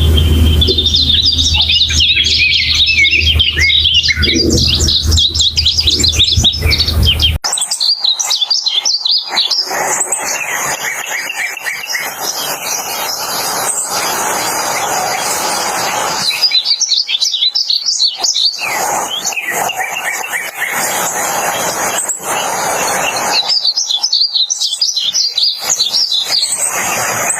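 Painted bunting singing: quick, high, warbling song phrases, a steady run at first and then repeated phrases a few seconds apart, over a steady hiss. A low hum underneath cuts off suddenly about seven seconds in.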